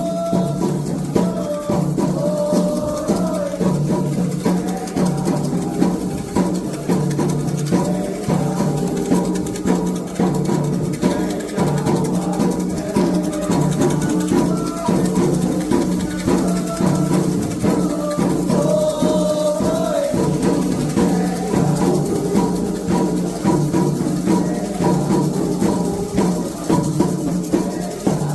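Candomblé ceremonial music: atabaque hand drums and rattling percussion keep a dense, steady rhythm under voices singing a chant.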